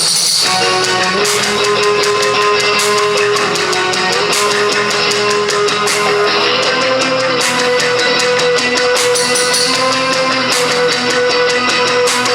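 Live band playing: electric guitar holding long sustained notes over a drum kit.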